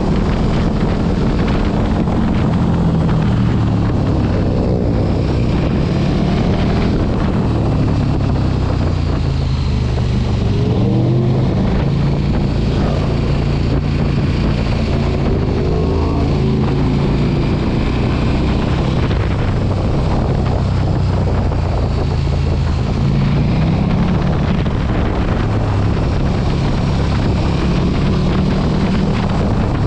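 A big sport motorcycle engine being ridden on the road, its pitch rising and falling several times as the throttle opens and gears change, with wind buffeting the microphone.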